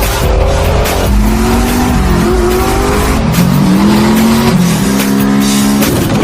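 A car engine revving, its pitch rising and falling repeatedly, with tyre squeal, over music.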